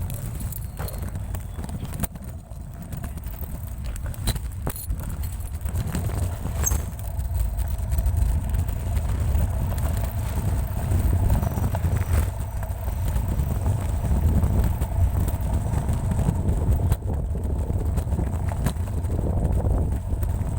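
Steady low rumble of riding a kick scooter along pavement, wheels rolling and wind on the microphone, with scattered clicks and knocks; it grows a little louder partway through.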